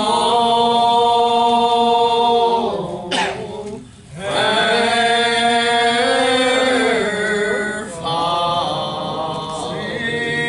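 Voices singing a slow hymn in long held notes, with a brief pause for breath about three seconds in and another break near eight seconds.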